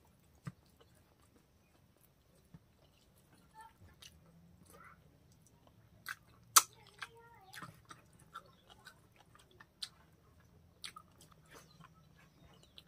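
Eating mouth sounds: wet chewing and lip smacks from a mouthful of rice and pork curry eaten by hand, with scattered sharp clicks, the loudest about six and a half seconds in.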